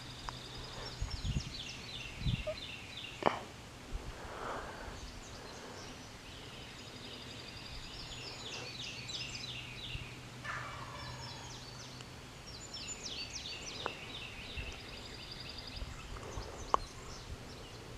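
Wild turkey gobbling, over songbirds singing quick repeated high phrases, with a few faint clicks.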